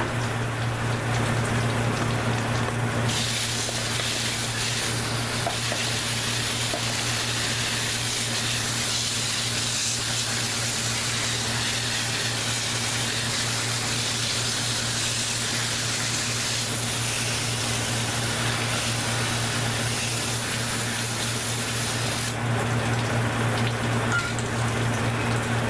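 Water spraying hard onto an evaporator coil to wash it clean, starting about three seconds in and cutting off a few seconds before the end. A steady low motor hum runs underneath throughout.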